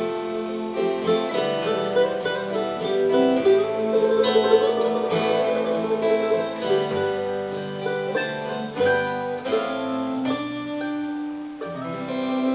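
Acoustic guitar and other plucked strings playing the instrumental ending of a slow folk song, with no singing.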